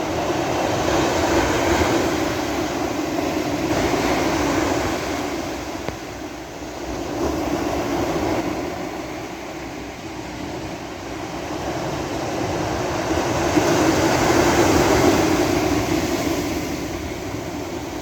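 Sea waves breaking and washing up a beach, a continuous rushing surge that swells and eases: loud early on the first surge, quieter through the middle, and building to its loudest about three quarters of the way through.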